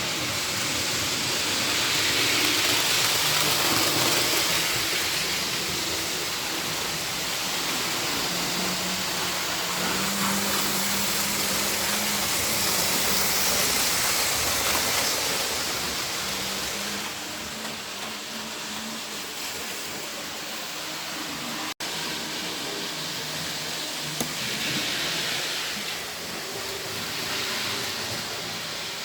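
Model trains running on a layout: a steady rushing noise of wheels on track with the hum of small electric motors that shifts in pitch, louder in the first half and easing off after the middle.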